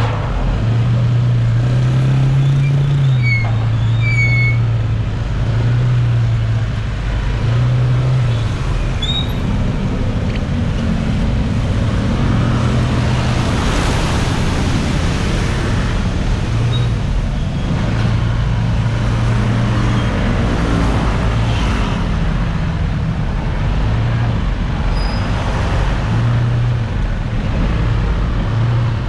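A motor engine running steadily, its low note stepping up and down in pitch, over a constant rushing noise.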